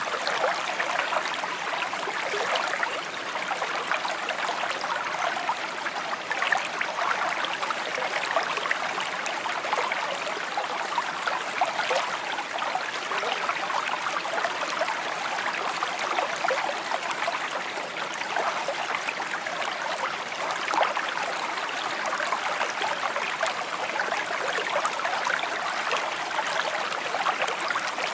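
Shallow stream babbling and trickling steadily over stones, a continuous rush full of small splashes and gurgles.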